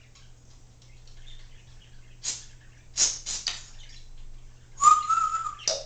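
Congo African grey parrot making a few short, sharp clicking noises, then one whistle held for about a second, ending in a short squawk.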